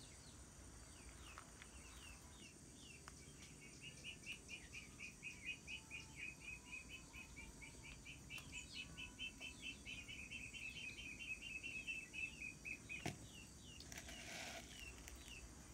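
A small bird calling: a fast, even series of short, high chirps, about five a second, lasting some nine seconds. Under it runs a faint steady high insect drone, and a brief burst of noise comes near the end.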